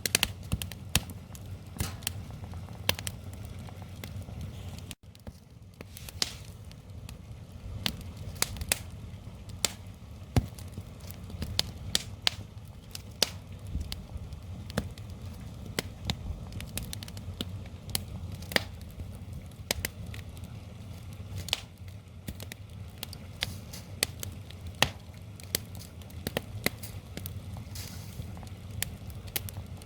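Wood fire crackling and popping, sharp irregular snaps over a steady low rumble.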